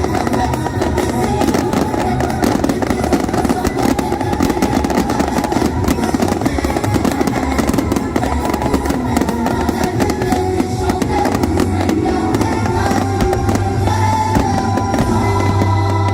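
Fireworks bursting and crackling in quick succession over loud show music.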